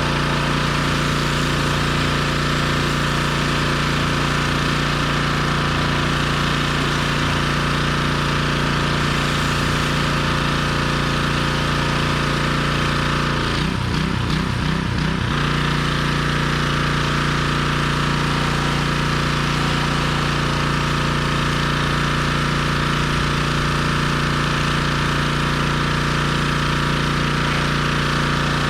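Gas-engine pressure washer running steadily, its note wavering briefly about halfway through.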